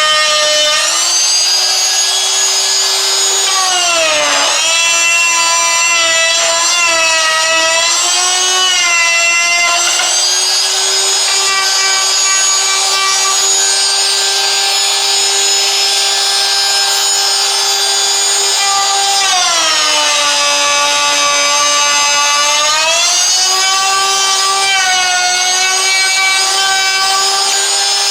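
Handheld wood router with a bevel bit running at high speed, cutting a bevelled edge along a pine 1x6 board: a loud, steady whine with a hiss. The pitch drops briefly about four seconds in and again for several seconds later on.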